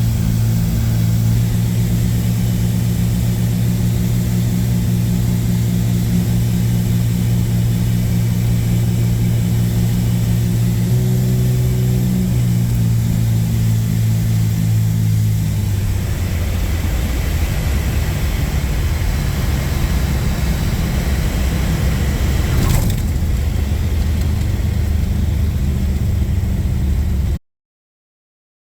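Cessna 310's twin piston engines running steadily. The engine note shifts about 11 seconds in and changes again about 16 seconds in, and the sound cuts off abruptly near the end.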